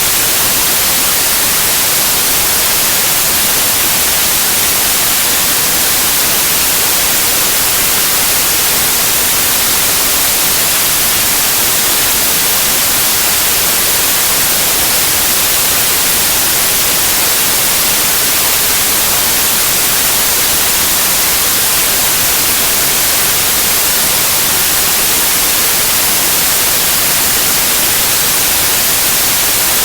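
Steady white noise: an even, unbroken hiss, strongest in the high end, with no change or events.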